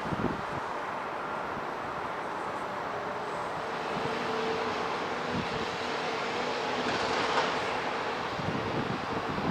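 Jet engines of a taxiing Boeing 787-9 airliner: a steady rushing noise, with a faint steady tone coming in a few seconds in.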